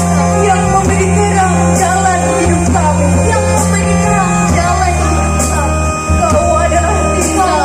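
School choir singing with instrumental accompaniment. Steady low bass notes shift to a new note about halfway through.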